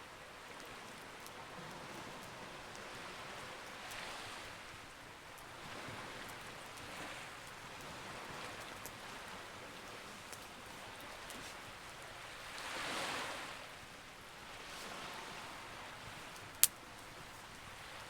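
Campfire crackling with scattered small pops over a hiss of sea waves swelling and receding every few seconds, the biggest swell a little past the middle. One sharp, loud pop from the fire near the end.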